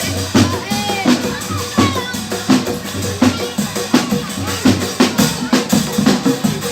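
Dangdut music played by an obrog street band: a drum kit keeps a steady, quick beat of bass-drum and snare strikes, with a melody gliding up and down over it.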